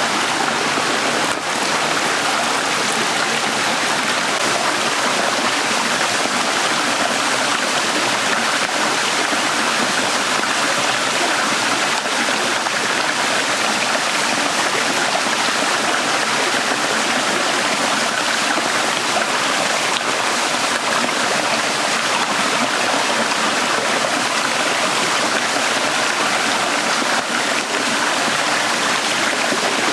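A small stream running steadily over rocks, a continuous rush of flowing water close by.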